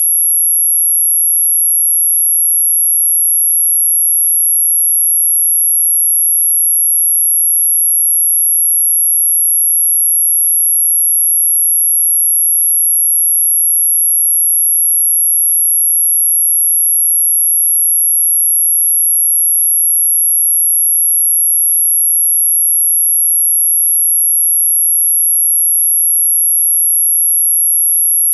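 A steady, very high-pitched pure sine tone that holds one pitch without a break: an anti-mosquito repellent tone.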